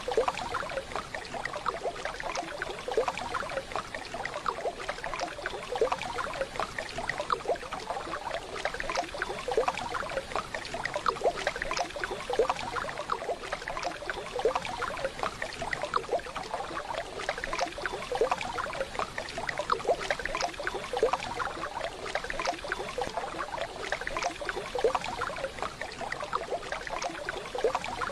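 Waterfall: water rushing and splashing steadily, with many short sharp splashes.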